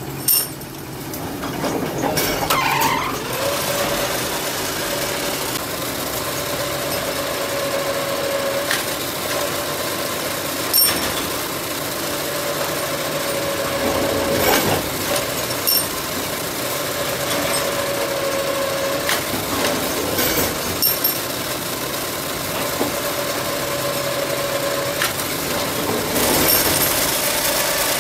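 Forging-shop machinery running with a steady motor whine that breaks off and returns several times, the first time after a short rise in pitch about two to three seconds in. A few short, sharp knocks come through it.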